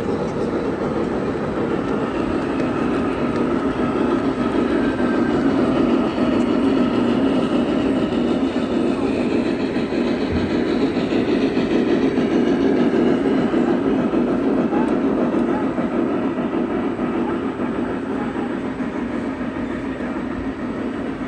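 Long model train rolling steadily past on a layout, its wheels clicking over the track.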